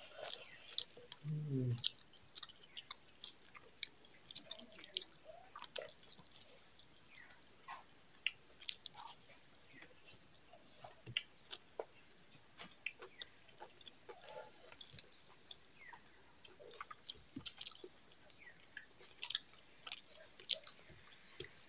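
Close-up chewing and mouth sounds of two people eating rice with chicken and pumpkin curry by hand, many short clicks throughout. A short sound from a voice comes about a second in.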